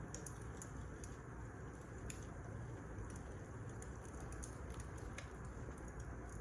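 Wood fire crackling: a steady low rush with sharp, irregular pops scattered through it.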